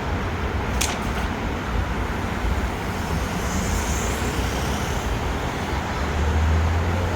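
Steady vehicle rumble and rushing road or rail noise, with a brief sharp click about a second in.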